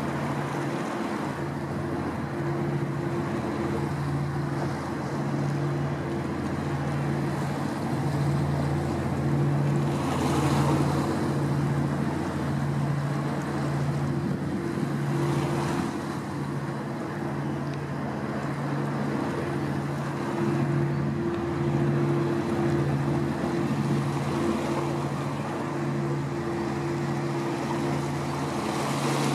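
A passing boat's engine drones low and steady with a slow, regular throb of about one beat a second, over a wash of wind and waves.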